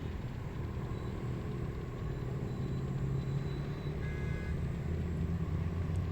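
A low engine drone, like a motor vehicle some way off, steady with its pitch shifting slowly and a little louder in the second half. About four seconds in, a brief high call sounds over it.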